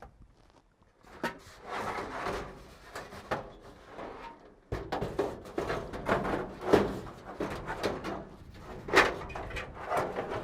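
Irregular clattering, knocks and scraping as stored aluminium ailerons are worked around inside a small aircraft's cabin, with a few sharper bangs in the second half.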